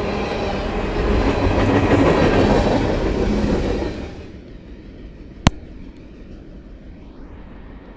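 Freight cars rolling past at close range, steel wheels running over the rail joints, loud and steady; the noise falls away sharply about halfway through as the last car clears. Then only a faint low background, broken by a single sharp click about a second and a half later.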